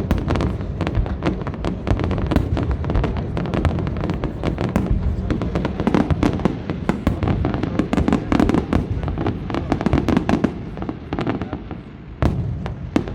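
Fireworks display: a dense, continuous barrage of bangs and crackles from aerial shells, easing briefly near the end before a fresh cluster of bangs.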